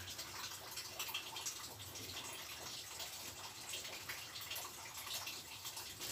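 Light rain drizzling: a steady faint hiss with scattered small drips.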